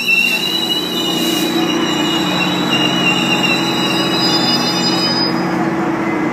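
GO Transit bi-level train braking into a station: high-pitched wheel and brake squeal with several tones, over the steady low hum of the MP40PH-3C diesel locomotive passing close by. The squeal cuts off suddenly about five seconds in.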